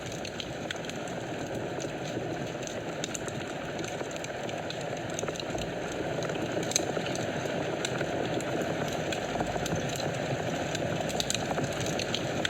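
Wood fire burning in a fireplace: a steady rush of flames with scattered small crackles and one sharper pop about seven seconds in.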